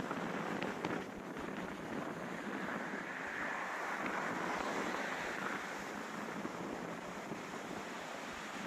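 Gale-force wind blowing in gusts: a steady rushing that swells about three to five seconds in, with a few faint clicks.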